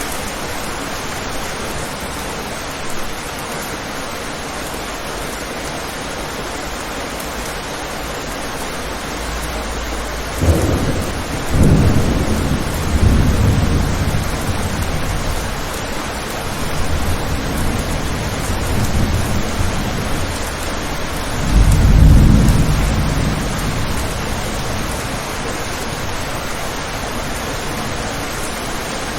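Steady rain falling, with a long rolling rumble of thunder that starts about a third of the way in, swells to two loud peaks and dies away.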